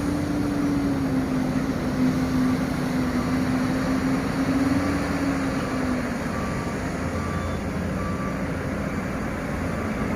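Heavy diesel machinery running steadily as an excavator loads coal trucks, with a droning tone over the engine noise for the first six seconds. From about six seconds in, a vehicle's reversing alarm beeps faintly and regularly.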